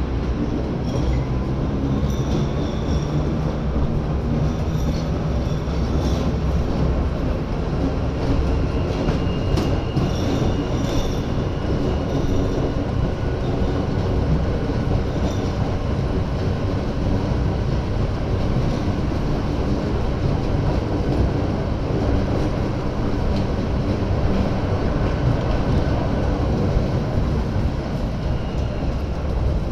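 Rack-railway (cog-rail) metro car climbing uphill: a steady running rumble, with faint high squeal-like tones and light ticks in the first half.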